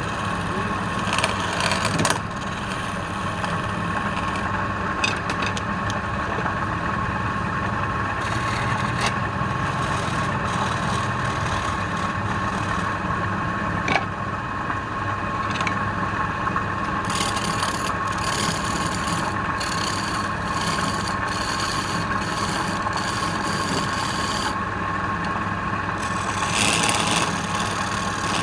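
Wood lathe running with a steady motor whine and hum, while a tool works the spinning wood in stretches of scraping noise, longest in the second half.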